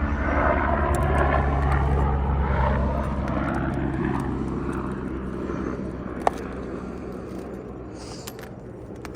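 An engine passing by, a steady low hum that slowly fades away over several seconds, with one sharp click about six seconds in.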